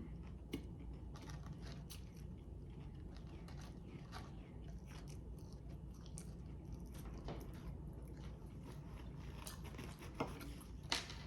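Close-up chewing of a sandwich, with scattered faint wet clicks and small crunches.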